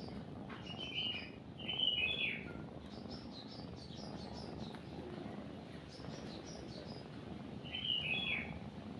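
Small songbirds chirping in short bursts, loudest about a second in, two seconds in and near the end, with fainter high chirps in between, over a steady low purring of a cat.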